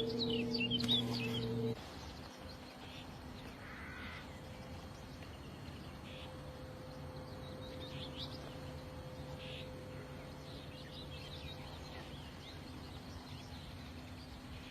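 Small birds chirping: a quick cluster of high chirps at the start, then scattered single calls. A steady low hum stops abruptly about two seconds in.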